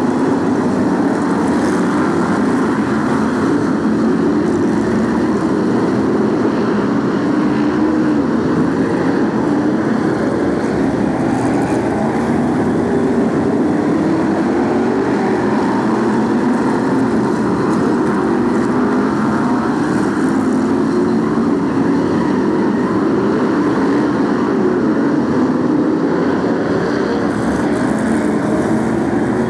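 A pack of BriSCA F1 stock cars racing, their V8 engines running loud and continuous, with many overlapping engine notes rising and falling in pitch as the cars accelerate and lift off.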